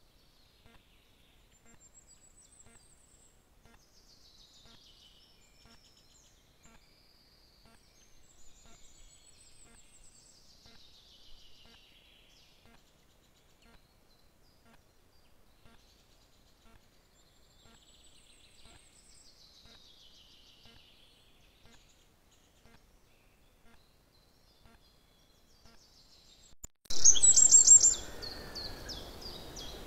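Small songbirds singing faintly, a short falling phrase every several seconds. Near the end, much louder bird chirps start suddenly over a steady hiss.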